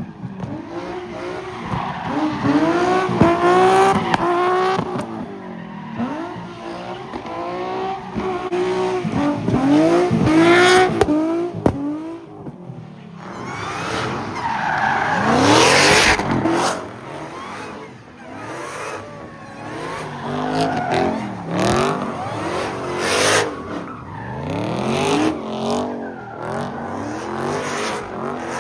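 Car engines revving up and falling back over and over while the cars spin in tight circles, with tyres skidding and squealing. The loudest stretch comes about halfway through.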